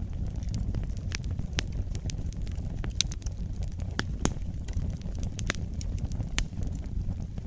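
Wood fire burning in a fireplace: a low steady rumble of flame with irregular sharp crackles and pops from the burning logs, a few of them louder about three and four seconds in.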